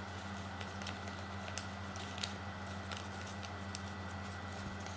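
Origami paper being handled and folded by hand, crinkling in scattered small clicks as one point of the folded bird is opened, tucked up inside and closed again. A steady low electrical hum runs underneath.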